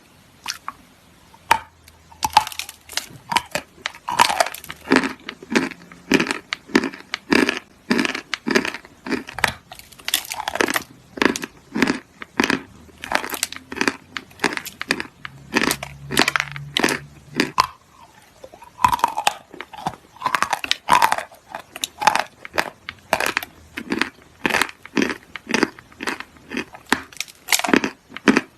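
Close, repeated crunching, about two crunches a second, the sort of crisp crunch the title calls dry and wet crunch.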